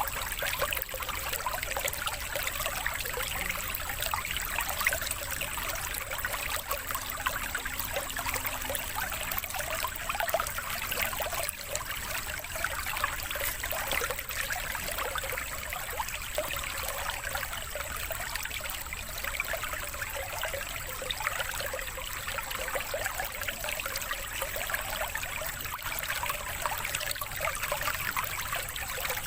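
Steady trickling of running water, like a small stream or fountain, played as a water-therapy track for conditioning caged songbirds.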